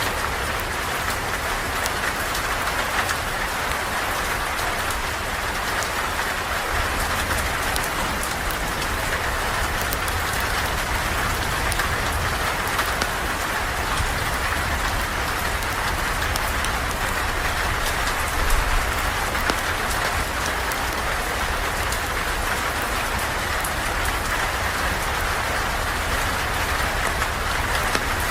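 Steady rain falling, an even hiss with many fine scattered ticks of drops throughout.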